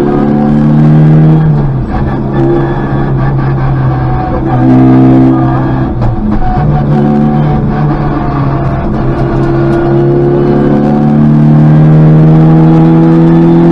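Škoda Favorit rally car's four-cylinder engine heard from inside the cabin, driven hard on a special stage. Revs climb and fall with gear changes and lifts, dropping briefly about two seconds in and again about six seconds in, then building steadily again.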